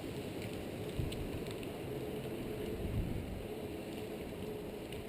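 Steady wind noise on the microphone, with a faint steady hum beneath it and two light knocks, about a second and three seconds in.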